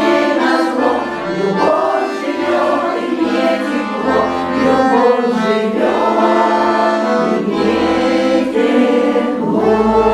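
Russian folk choir singing in full voices over a steady held accompaniment, with accordion among the instruments.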